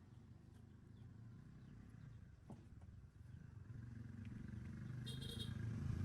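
Low motor-like rumble, faint at first and growing steadily louder through the second half, with a few light clicks and a brief high chirp about five seconds in.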